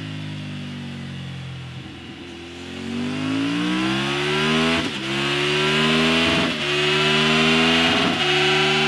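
Triumph Tiger 900's three-cylinder engine running through an SC-Project titanium slip-on exhaust. It runs steadily at first, then accelerates from about two seconds in, the pitch climbing, with three brief breaks as it pulls.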